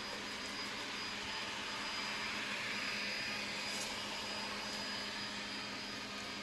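A 360 robot vacuum running steadily on its low, quiet suction setting: an even hum with a faint high whine, swelling a little about two to three seconds in.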